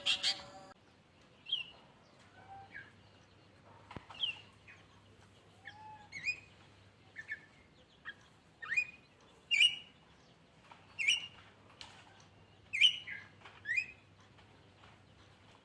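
A songbird singing a varied run of short, sharp chirps and whistled notes, each quickly sweeping up or down in pitch. The notes come one or two at a time at uneven gaps and get louder from about halfway in, over a faint low hum.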